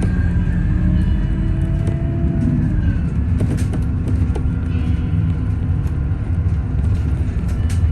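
Scania Citywide CNG city bus under way: a steady low drone of engine and road rumble, with a whine that glides up and back down in pitch during the first three seconds and a few light knocks and rattles.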